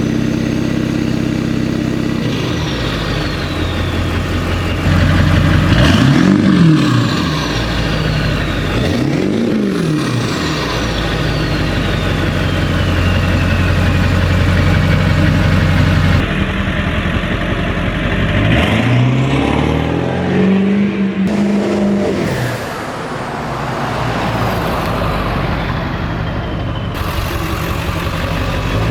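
Ford 7.3L Powerstroke turbo-diesel V8 with a straight-piped exhaust, heard from outside the truck: idling and revved several times, each rev rising and falling in pitch, with a high turbo whistle winding down after the revs. The sound changes abruptly a few times, as if between takes.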